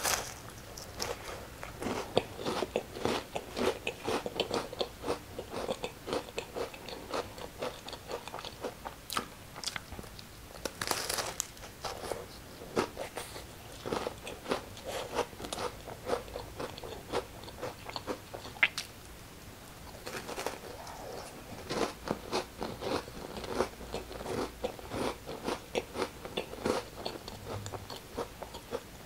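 Close-up crunching and chewing as crackers sandwiched with cookies-and-cream ice cream are bitten and eaten, with bites and crunchy chews coming one after another. A louder, sharper crunch comes about eleven seconds in.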